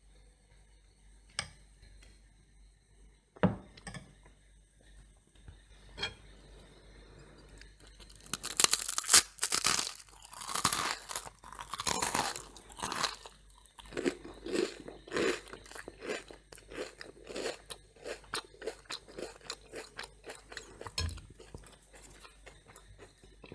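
Crunchy toast being bitten and chewed: a few sharp clicks, then loud crackling crunches about eight seconds in, settling into steady rhythmic chewing.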